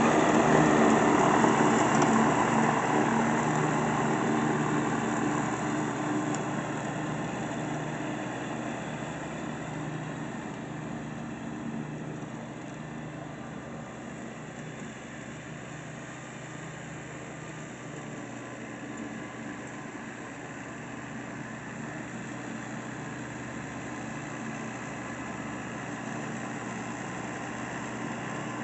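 Kubota B1750 compact tractor's three-cylinder diesel engine running steadily while mowing grass, growing fainter over the first fifteen seconds or so and then holding at a steady level.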